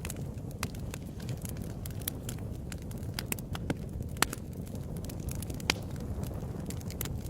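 Wood fire burning in a fireplace, with a steady low rumble of flame and irregular sharp crackles and pops, a couple of louder pops around the middle and later on.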